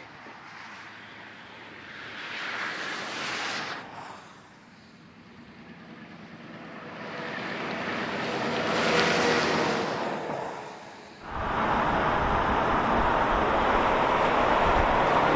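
Heavy trucks driving past on a highway: the engine and road noise swells and fades, twice, then cuts suddenly a little past the middle to a louder, steady rush of truck noise.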